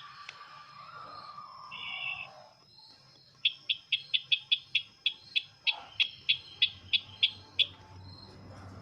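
Bird call played as a lure, the 'sisintar ladang' call, with sharp high chip notes. A short trill comes about two seconds in. From about three and a half seconds a fast run of about four chips a second goes on for some four seconds.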